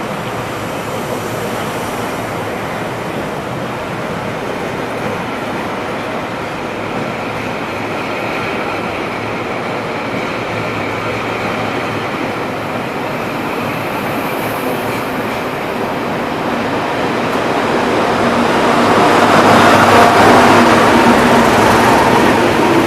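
British Rail Class 37 diesel-electric locomotives, with English Electric V12 engines, hauling a rake of empty coaches out of the station: steady diesel engine and rolling-stock rumble, growing louder toward the end.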